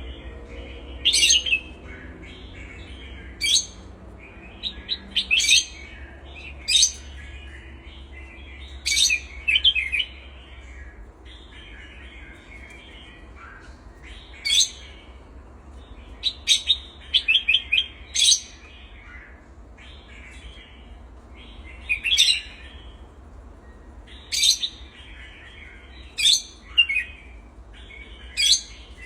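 Pet birds chirping: loud, sharp, high chirps every second or two, some in quick runs, over steady softer twittering.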